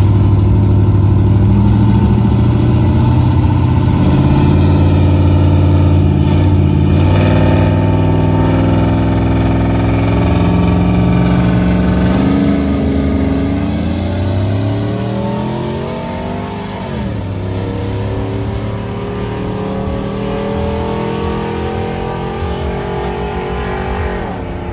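Ford and Chevy pickup truck engines revving hard against each other, held at high revs for a long stretch, then revs sweeping up and down about midway and again near the end.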